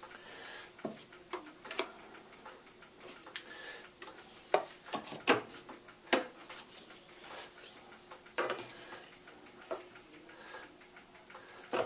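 Irregular light clicks and knocks, a dozen or so spread out unevenly, from hands handling the Edison Standard phonograph and its wax cylinder while setting it up to play.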